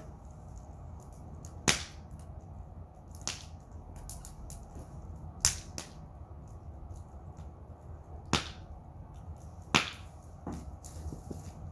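Wood fire in the snow crackling, with about five loud sharp pops at irregular intervals over a low steady burning noise.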